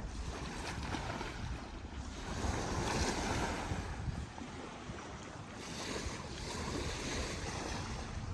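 Wind buffeting the microphone over the wash of river waves on the shore, swelling louder twice.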